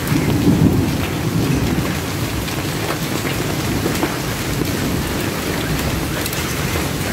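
Heavy rain pouring steadily in a hailstorm, with scattered sharp ticks of impacts on hard surfaces. A low rumble underneath is loudest in about the first second.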